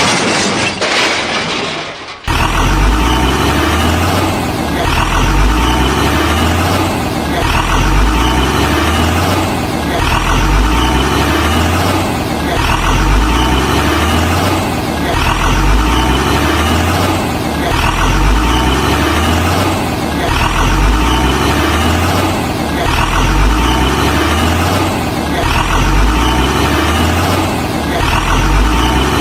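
Heavy truck engine running and revving in an even cycle that repeats about every two seconds.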